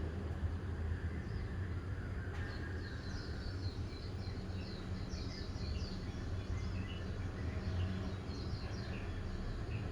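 Small birds chirping in quick runs of short, high notes, starting about two and a half seconds in, over a steady low rumble.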